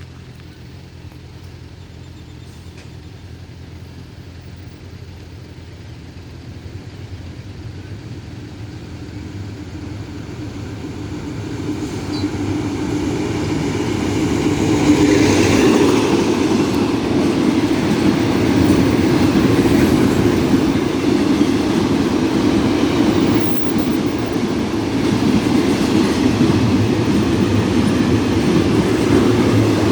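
Passenger train drawing near, its rumble growing steadily louder for about fifteen seconds, then running past loud with wheels clattering over the rail joints.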